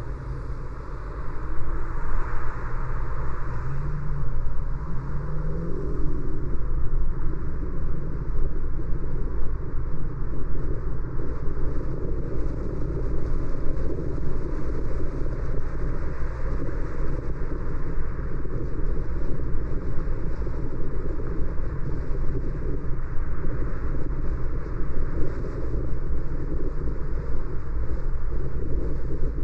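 Car driving: a steady rumble of road and engine noise, heaviest in the low end, with a faint rising tone a few seconds in.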